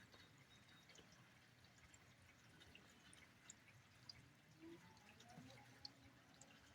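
Near silence with faint, scattered drips of rainwater ticking irregularly over a low hum.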